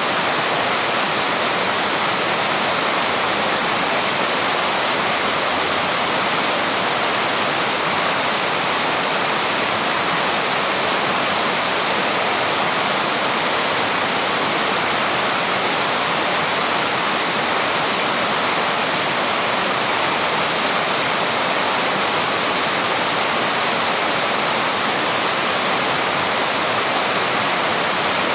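A waterfall's water rushing steadily, an even, unbroken roar with no pauses or changes.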